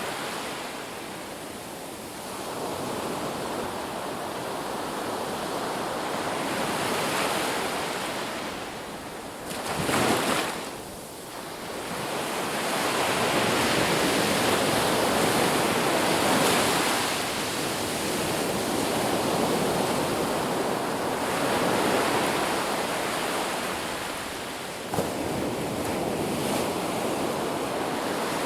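Ocean surf on a beach: a steady wash of waves that swells and eases every few seconds, with one louder breaking wave about ten seconds in. A brief sharp click sounds near the end.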